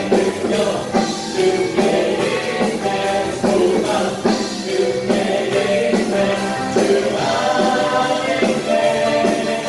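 Contemporary worship music: a group singing a praise song over a band with a steady beat.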